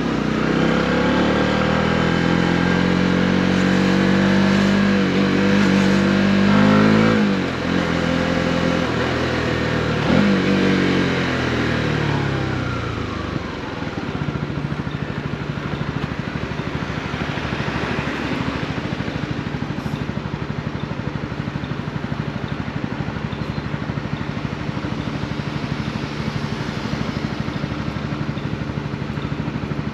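Honda CB125R's single-cylinder four-stroke engine under way, its pitch rising and falling through gear changes and throttle blips as the bike slows, then settling to a steady idle about halfway through.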